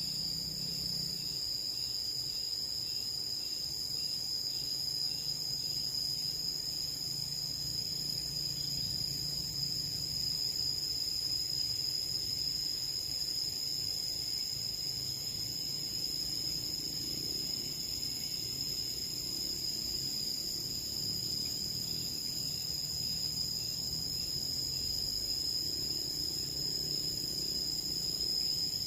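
Steady, high-pitched insect chorus drone that runs on without a break.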